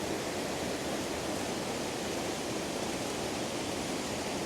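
White water of a river thundering through rapids and falls, a steady dense rush.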